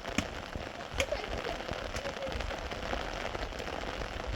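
Steady heavy rain falling, with a couple of sharp taps in the first second.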